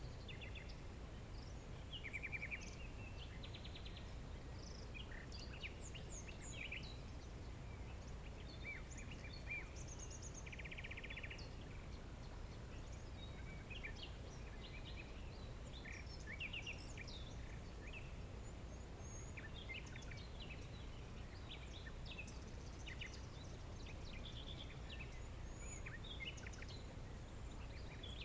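Several songbirds chirping and calling, short high notes scattered throughout with a few rapid buzzy trills, over a steady low background rumble.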